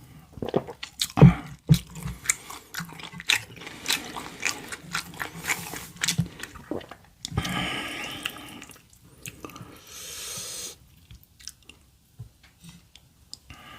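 A person chewing and biting food close to the microphone, with dense wet, crisp mouth clicks for the first half. Two longer rushing noises follow, about seven and ten seconds in, then a few scattered chews.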